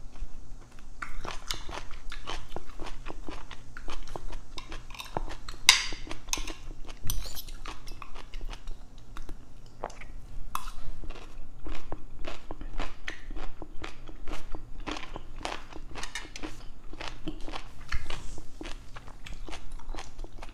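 A person chewing and biting food close to a clip-on microphone: a dense, irregular run of wet mouth clicks and crunches.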